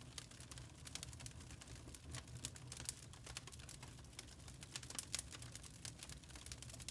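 Burning charcoal crackling: many small, irregular pops and ticks over a faint low rumble.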